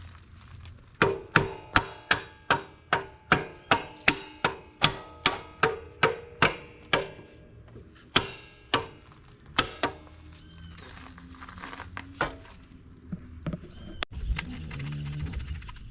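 Hammer striking metal: a quick run of about twenty ringing blows, two to three a second, then a few scattered lighter knocks near the end.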